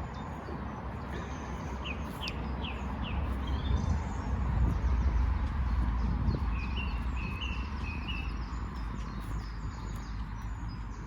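Small birds chirping and singing, with a run of quick falling notes early on and a string of short repeated notes later, over a low rumble of road traffic that swells and fades about midway.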